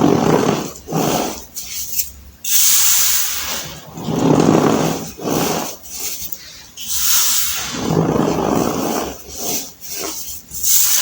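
Compacted baking soda being squeezed and crushed by hand: repeated crunchy, squeaky crumbles, one every second or two, some with a powdery hiss as the pieces break up.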